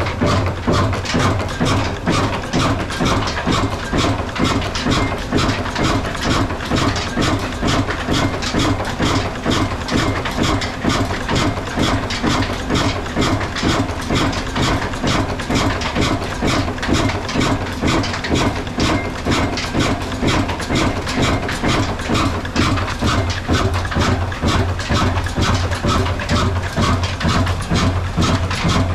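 Old black Ruston-type diesel engine running steadily with an even, rhythmic beat while driving a flour mill (aata chakki).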